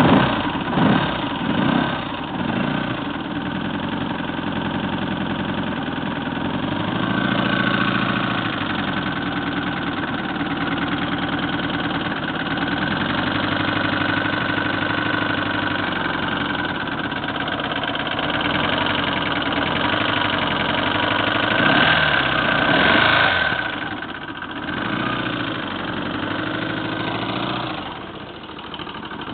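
Honda GL1200 Gold Wing's flat-four engine catching and settling to idle, with a brief rev about 22 seconds in. The engine has a knock that the owner is demonstrating; its cause isn't given.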